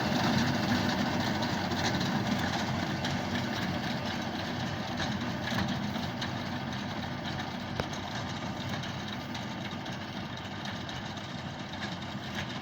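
Tractor engine running steadily as it works a reaper binder cutting wheat, growing gradually fainter.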